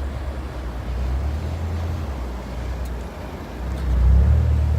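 A low, steady rumble of engine noise that grows louder about four seconds in.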